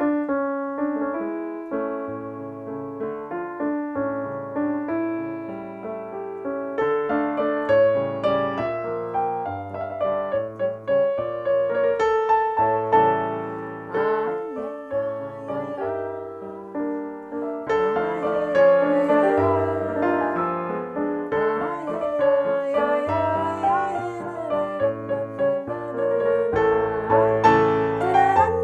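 Electric keyboard playing a nigun, a wordless Hasidic tune, with a melody over a bass line.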